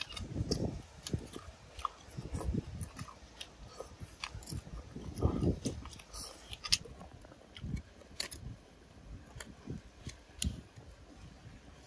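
Close-up eating sounds: irregular wet chewing and mouth smacks with small clicks, as someone chews grilled oyster meat.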